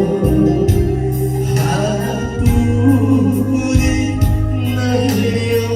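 A slow trot ballad sung in Korean over a backing track with a steady beat and bass; the words '하나뿐인' are sung about three and a half seconds in.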